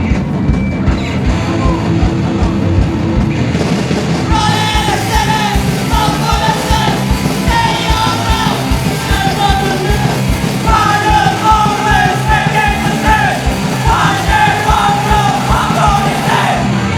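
Punk band playing live at full volume, with shouted, yelled vocals coming in about four seconds in.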